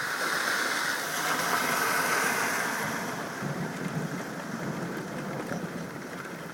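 Distant thunder rumbling over steady rain after a lightning flash, swelling in the first few seconds and then slowly dying away.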